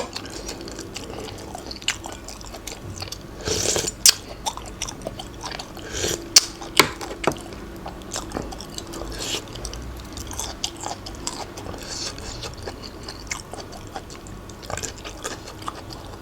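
A person chewing and biting food close to the microphone: irregular wet clicks and crunches, with a longer crunch about four seconds in.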